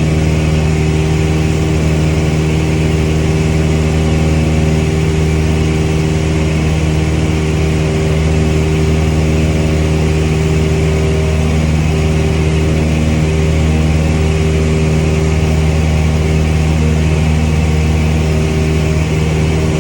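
Cessna 172's piston engine and propeller running at takeoff power, a loud, steady drone that holds the same pitch throughout.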